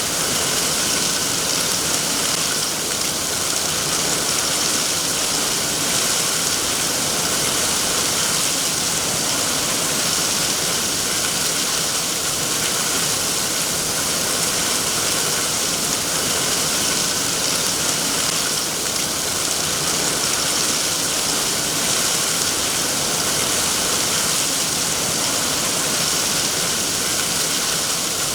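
Steady rain falling, an even hiss of rainfall with no separate drops or thunder standing out.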